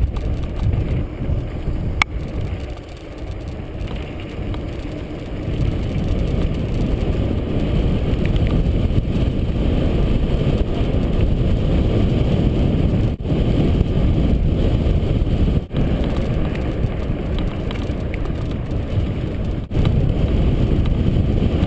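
Wind rushing over the microphone and mountain-bike tyres rolling on the road during a downhill ride, a steady rumbling noise that grows louder a few seconds in.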